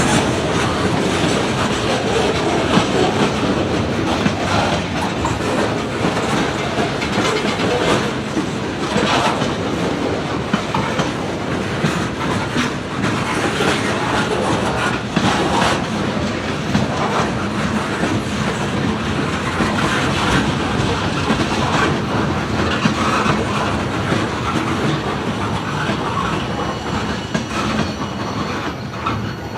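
Railroad cars rolling past at close range, their wheels clicking steadily over the rail joints.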